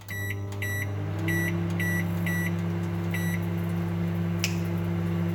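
Microwave oven starting up and running with a steady hum while cooking a bag of microwave popcorn. About seven short, high keypad beeps sound over the first three seconds or so, and there is a single click about four and a half seconds in.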